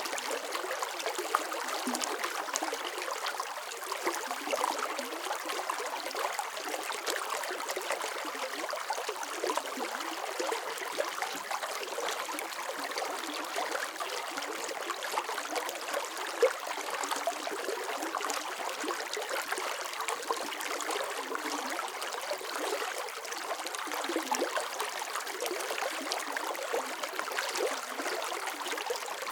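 Running water flowing and trickling steadily, like a small stream, with fine splashing and gurgling detail and no deep rumble.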